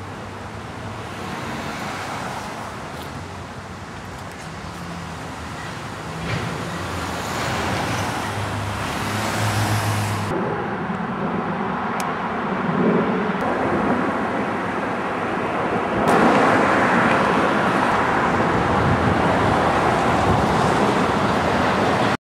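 Road traffic: cars passing on a city street, a continuous wash of engine and tyre noise that grows louder in steps.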